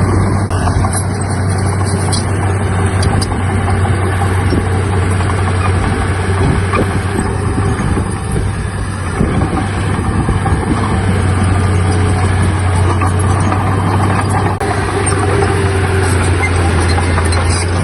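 Heavy diesel earthmoving machinery running steadily under load, a constant low engine hum.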